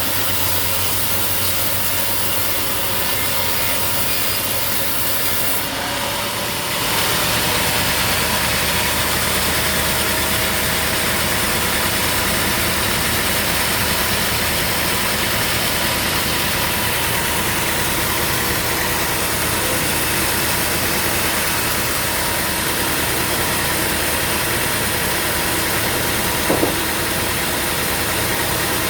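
Sawmill machinery running steadily with an engine-like drone. About seven seconds in, the sound shifts and gets a little louder, and there is a brief click near the end.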